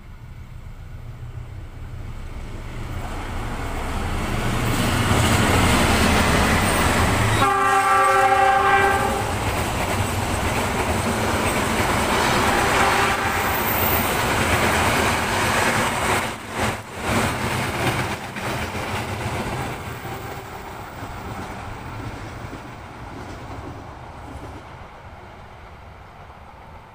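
A CC 206 diesel-electric locomotive and its passenger carriages approach and pass at speed. Engine and wheel-on-rail noise swells over the first few seconds, with one horn blast of about a second and a half some seven seconds in. The carriages rumble and clatter past, and the sound fades as the train moves away.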